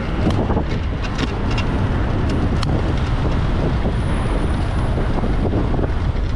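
Steady vehicle and road-traffic noise, a heavy low rumble with a few scattered sharp ticks.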